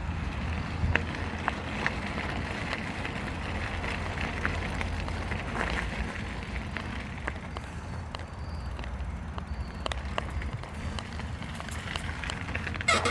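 Bicycle riding along: steady tyre and riding rumble with scattered small clicks and rattles, picked up by a camera mounted on the bike.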